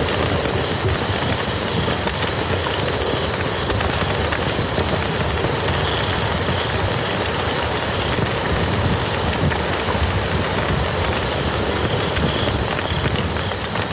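Steady rush of a flowing river with a wood campfire crackling over it.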